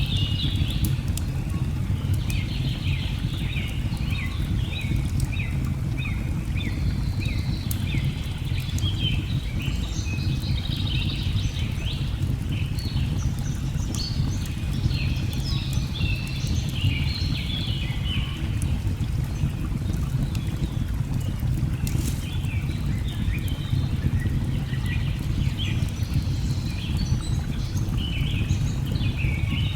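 Nature ambience: the steady low rush of a waterfall under rapid, chirping bird calls that come in runs, falling quiet for a few seconds about two-thirds through. A few sharp crackles of burning logs cut through.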